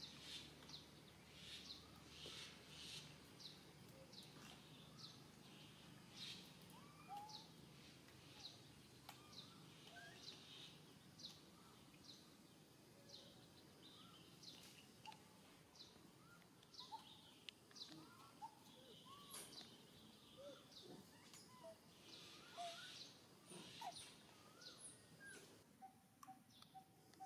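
Faint outdoor birdsong: short, high chirps repeated about once a second, with scattered lower, gliding call notes over a light background hiss.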